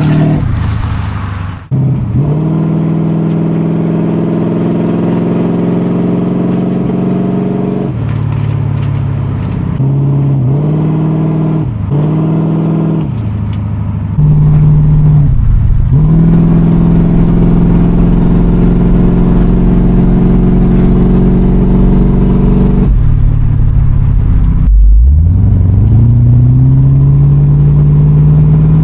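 Classic car engine being revved and held at raised revs, with quick drops and climbs in engine speed a few times and a long rise near the end.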